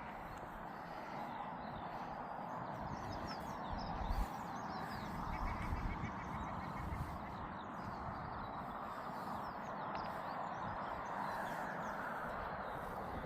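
Steady outdoor background noise with low buffeting rumbles from wind on the microphone, two stronger gusts about four and six seconds in, and faint chirps of small birds.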